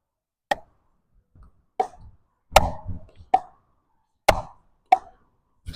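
A rally: a ball being struck back and forth with rackets and bouncing on the court, about seven sharp knocks in five seconds.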